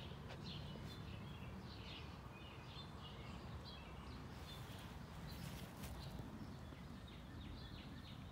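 Small birds chirping on and off over a steady low outdoor background rumble, with a brief rustle about five seconds in.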